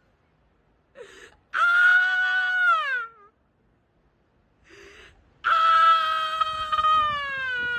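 A woman wailing in distress: two long, high-pitched cries, each drawn in with a sharp gasping breath. The first cry falls in pitch at its end.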